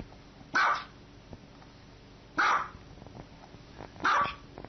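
A dog barking: three single barks, evenly spaced about a second and a half apart.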